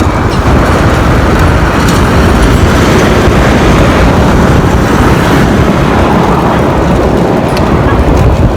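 Steady loud wind and road noise on the microphone of a moving bicycle, with traffic on the road.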